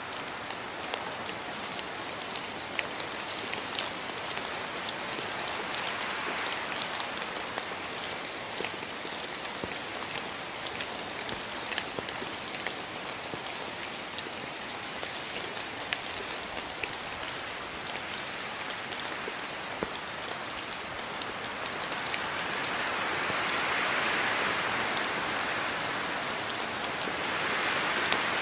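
Steady rain falling, with many single drops tapping sharply through the hiss. It grows somewhat heavier about three quarters of the way through.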